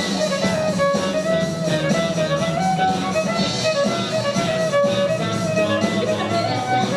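Live band playing an instrumental passage: a stepping lead melody held over guitar and bass, with no singing.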